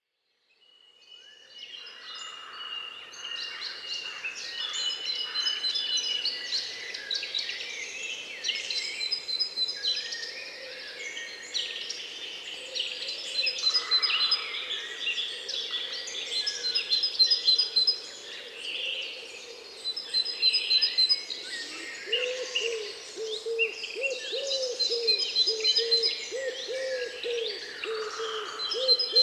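A chorus of many songbirds chirping, trilling and whistling, fading in over the first couple of seconds. About three-quarters of the way through, a low hooting call starts repeating steadily beneath the chorus.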